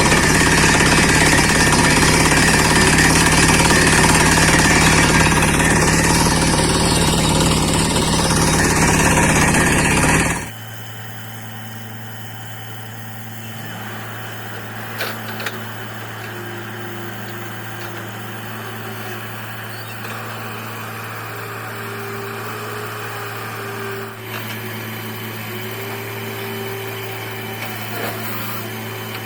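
Borewell drilling rig hammer-drilling, a loud dense clatter and rush for about ten seconds that cuts off suddenly. The rig's engine then runs on with a steady low hum.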